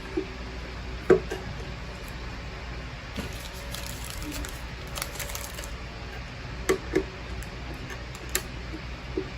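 Scattered sharp clicks and light knocks, about eight of them spread irregularly, from hands and tools working on the car's dashboard trim and screws, over a steady low hum.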